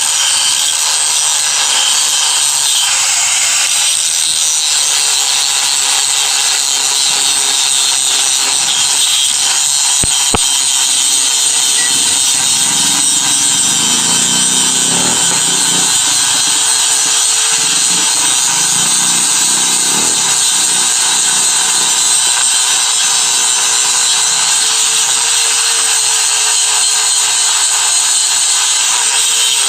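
Electric angle grinder running continuously against metal, a loud steady hiss over the motor's whine, which sags a little under load partway through.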